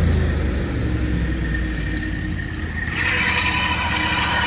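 An engine running steadily; about three seconds in a higher whine of several steady tones joins it.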